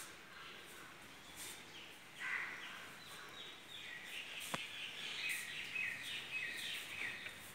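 Faint birds calling: many short, repeated chirps that start about two seconds in and grow busier toward the end.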